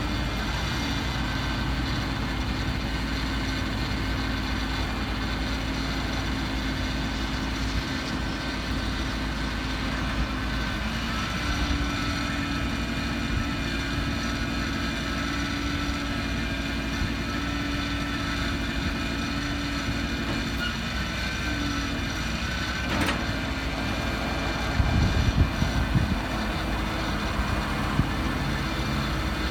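1981 GMC C7000 boom truck's engine idling steadily, with a steady whine that steps up slightly in pitch about eleven seconds in, and a few knocks a little before the end.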